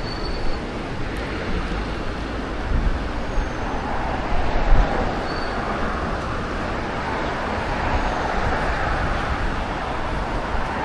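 Road traffic going by on a busy street, mixed with gusty wind buffeting the microphone.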